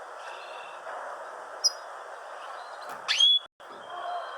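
Small birds chirping over a steady background hiss: a short trill, a brief high chirp, then a louder upward-sweeping call about three seconds in. The sound cuts out for an instant just after that call.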